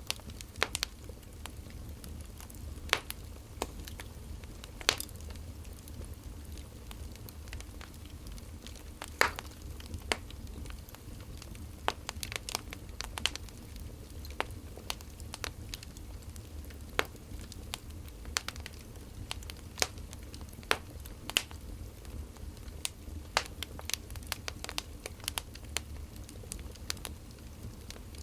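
Wood fire crackling: burning firewood giving irregular sharp pops and snaps over a low steady rumble.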